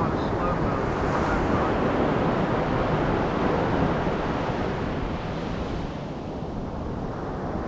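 Ocean surf breaking and washing up the beach, with wind buffeting the microphone. The wash is louder for the first few seconds and eases off about five seconds in.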